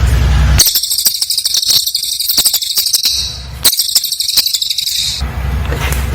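Cililin bird singing its dense, rapid-fire high-pitched trill, in two long bursts with a short pause between them. A steady low hum is heard before and after the song.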